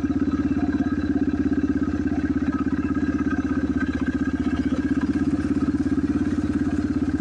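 Dirt bike engine idling steadily, with an even, fast exhaust pulse.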